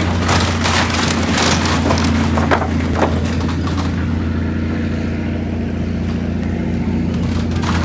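Steady low engine drone, with rushing, crackling noise over it that eases off after about four seconds.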